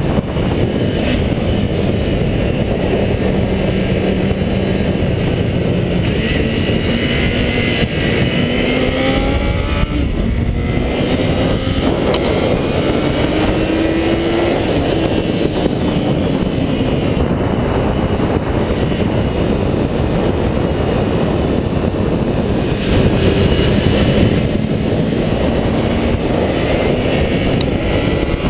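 High-revving 400cc motorcycle engine held near the top of its rev range, its pitch climbing and dropping back at each gear change, under a heavy rush of wind on the microphone.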